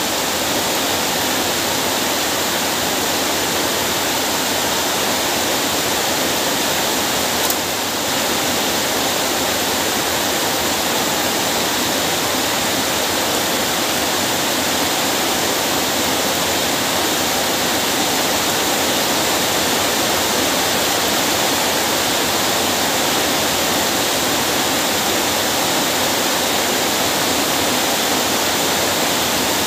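Steady rain, an even hiss that does not let up, with a single short click about seven and a half seconds in.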